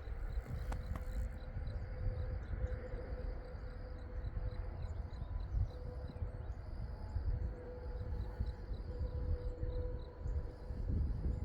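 Insects chirping outdoors: a run of high, evenly spaced chirps about three or four a second, fading out about halfway, and a higher pulsing trill, over a steady low rumble.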